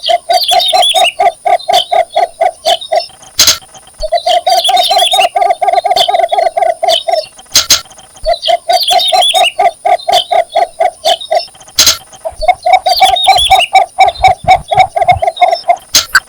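Cinnamon bittern giving its mate-seeking advertising call: four bouts of rapid, even, low notes, each about three seconds long, separated by short pauses.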